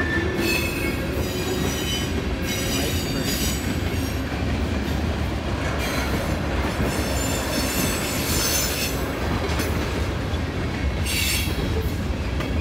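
Loaded freight train of tank cars and boxcars rolling past at speed, a steady rumble of steel wheels on rail, broken several times by short high-pitched metallic wheel squeals.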